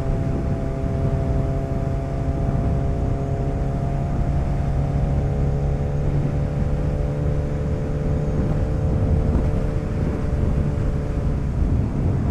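Motorcycle engine running at a steady cruise, with wind and road rush. Its note drifts slightly lower and fades in the later part as the bike eases off.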